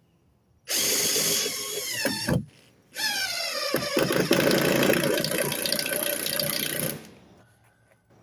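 Power drill driving screws through plywood into the wall studs: two runs, about two seconds and then four seconds long, the motor's pitch falling as it takes the load.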